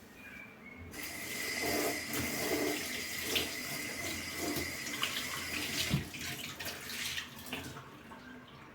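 Kitchen tap running water into a sink, turned on about a second in and off near the end, with a few sharp knocks partway through, the loudest near the end.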